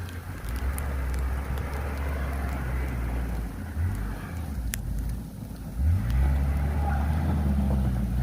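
A motor vehicle's engine running with a low, steady hum. The hum drops back briefly around five seconds in, then picks up again with a rise in pitch about six seconds in.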